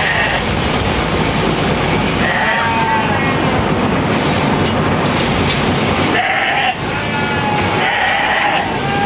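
Sheep bleating three times, wavering calls about two, six and eight seconds in, over a steady rushing noise.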